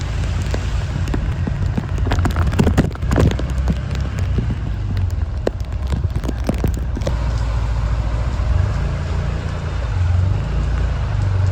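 A vehicle engine running with a low, steady rumble. Scattered sharp clicks and knocks come through it in the first several seconds.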